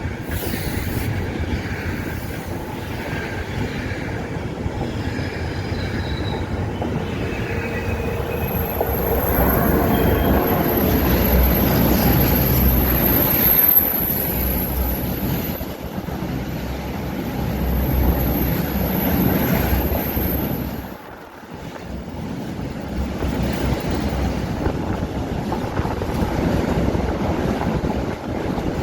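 A train running past, its wheels rumbling on the rails. From about 8 seconds in until about 20 seconds a thin, very high-pitched squeal rides over the rumble.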